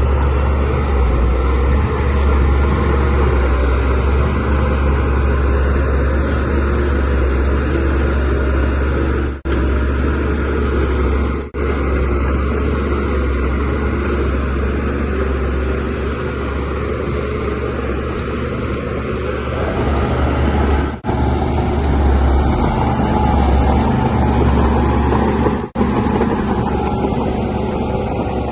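Shantui DH17C3Pro bulldozer's diesel engine running steadily under working load, a heavy low drone with broad mechanical noise over it. The sound drops out for a moment four times, at the cuts between clips.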